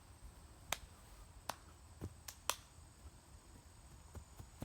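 A handful of sharp clicks or snaps at irregular intervals, four of them louder, packed into the first half, and a few fainter ones later.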